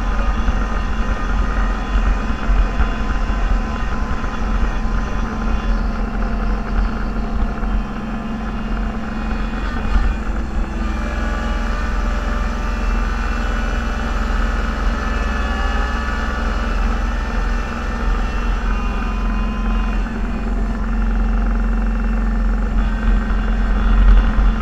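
Snowplow vehicle's engine running steadily under load, heard from inside the cab as a continuous low drone with a steady hum over it.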